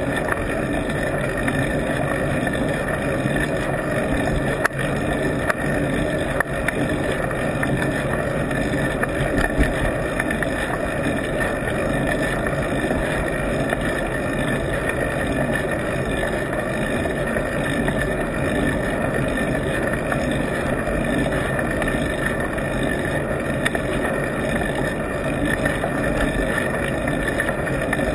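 Steady wind and road rumble picked up by a camera on an adhesive mount on a moving bike, with a few small knocks about five seconds in.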